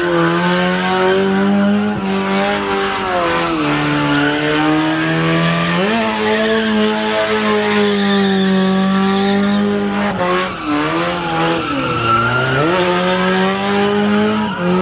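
Car engine held at high revs with its tyres squealing and skidding in a burnout or donut. The engine note dips about four seconds in and twice more near the end, then climbs back each time.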